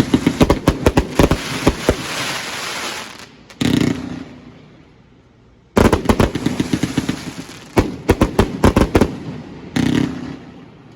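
Fireworks going off in rapid strings of sharp bangs with crackling between them, each string ending in a bigger bang. There is a quieter gap from about four to six seconds in before a second volley.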